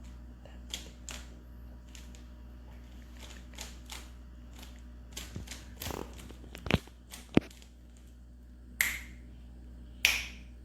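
Icing container and cake cup being handled: scattered small clicks and taps, two sharp knocks a little past the middle, and two short rushing bursts near the end.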